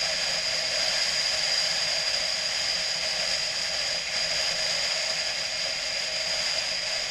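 Steady rushing wind and road noise of a BMW motorcycle under way, with no distinct engine note standing out.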